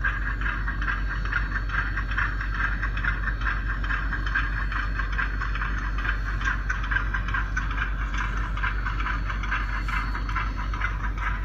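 Model train running along the layout track: a dense, fast clatter of wheels and running gear over the rails, over a low steady hum.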